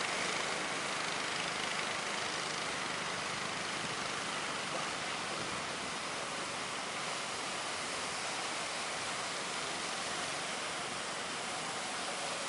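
Steady, even rushing noise of wind and sea water, with no clear engine note.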